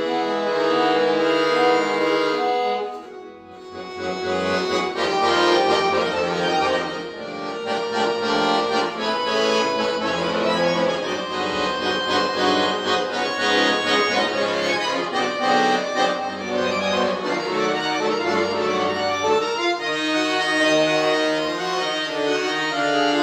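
Solo accordion playing slow music in held, reed-organ-like chords, with a brief breath-like pause about three seconds in before the playing resumes.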